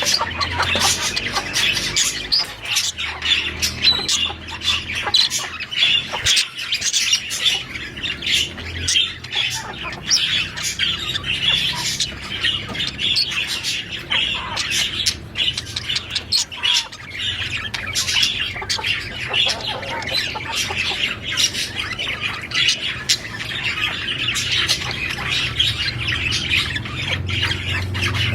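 Budgerigars chattering and squawking without a break: a dense run of short chirps, squeaks and clicks.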